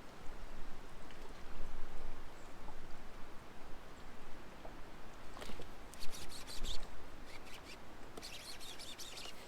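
Strong wind buffeting the microphone, a steady low rumble under a noisy hiss. About six seconds in and again near the end come short runs of rapid, high clicking.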